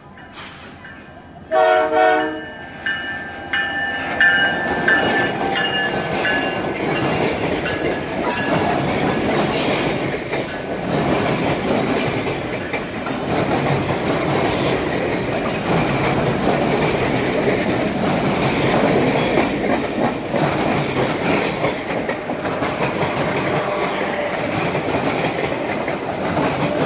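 A diesel locomotive's air horn gives short blasts about two seconds in. Then the Canadian Pacific Holiday Train passes close by in a steady rumble, its cars' wheels clacking over the rail joints.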